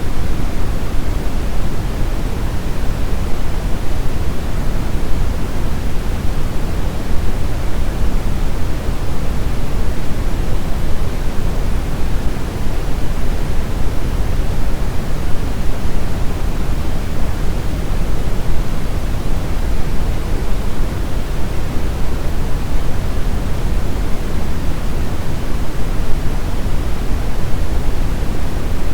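Steady synthetic brown noise: an even, deep rushing hiss, strongest in the bass and falling away toward the treble, with no change or break.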